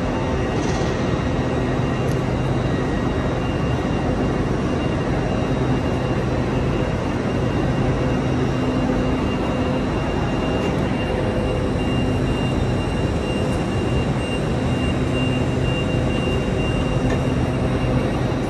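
Steady hum of a stationary LNER Azuma (Hitachi) train with its on-board equipment running, several steady tones held over an even rumble.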